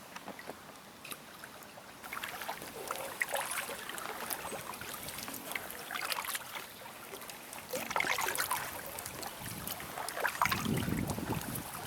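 Paddle strokes splashing and dripping water as a small inflatable boat is paddled along a river, the swells coming every couple of seconds. Wind buffets the microphone near the end.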